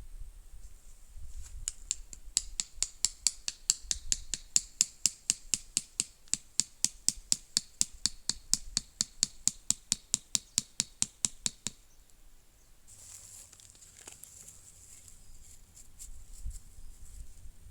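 A quick, even run of sharp clicks, about four a second, lasting about ten seconds and then stopping, followed by soft rustling.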